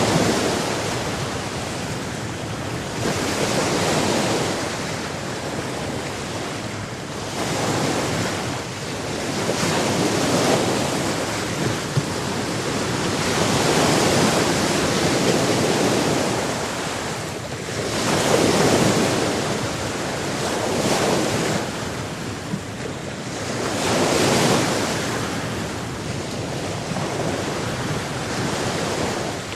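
Sea waves breaking and washing on a shore, the surf swelling and falling back every few seconds.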